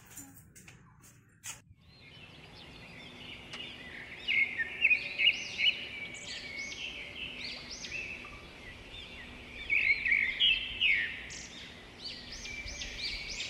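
Birds chirping and singing: many short, arching calls overlapping one another, beginning about two seconds in, with louder bursts of calls partway through and again later.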